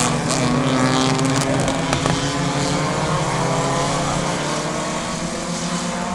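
Several race car engines running together at speed on a short oval, their pitches sliding up and down as the cars go through the turns.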